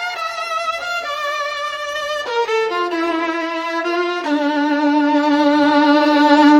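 Solo violin playing a slow melody that steps down through several notes to a long low note, held with vibrato and swelling in the last two seconds.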